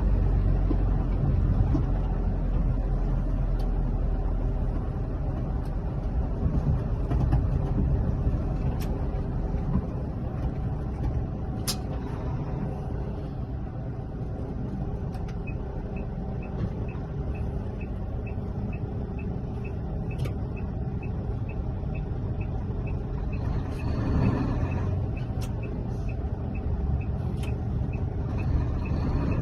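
UD Trucks Quon tractor's GH13 diesel engine idling steadily. In the second half a light, regular ticking runs at about two ticks a second.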